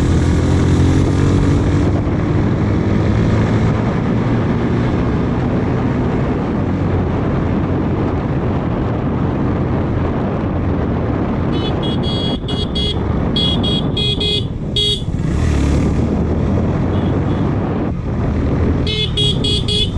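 A motorcycle running along the road with heavy wind rumble, its engine rising in pitch in the first couple of seconds. A vehicle horn sounds as repeated short toots in three clusters in the second half, from about 12 to 15 seconds in, and again just before the end.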